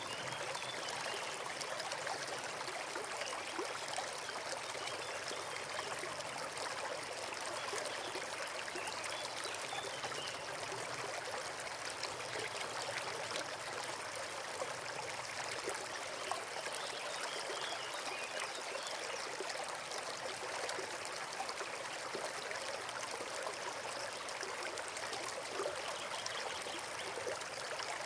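Forest brook running steadily, an even babbling and trickling of water.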